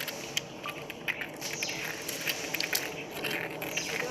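Giant panda chewing bamboo: a dense, irregular run of cracks and crunches. A few short high chirps that fall in pitch come through over it.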